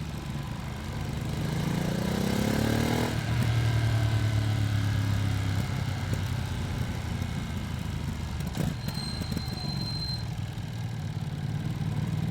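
Ducati Streetfighter V2S V-twin engine under way, revving up through a gear for about three seconds, then dropping in pitch at a shift and pulling on before easing off, with wind noise. The bike is new and still being run in.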